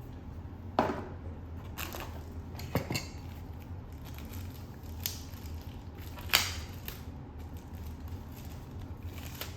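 Packaging being handled during an unboxing: scattered crinkles, rustles and short knocks, a few seconds apart.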